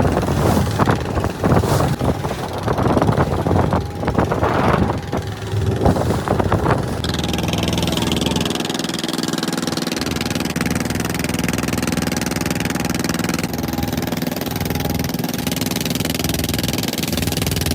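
Fishing boat's engine running steadily at constant speed. Louder, irregular noise lies over it for about the first seven seconds, then the engine alone carries on evenly.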